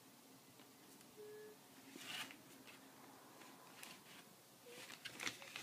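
Near silence: room tone, with a few faint, brief rustles or scrapes about two seconds in and again near the end.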